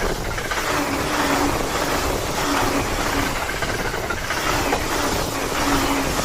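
E259 series Narita Express electric train running past at speed: a steady loud rush of wheels on rail and moving air, with a low hum that comes and goes every second or two.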